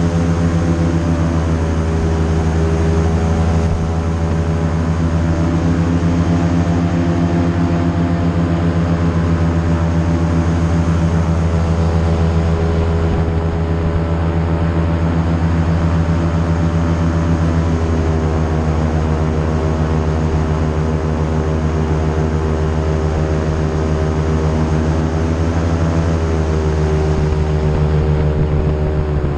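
Airboat under way: its engine and large air propeller drone loudly and steadily, the pitch shifting slightly a few times and dropping right at the end as the throttle eases.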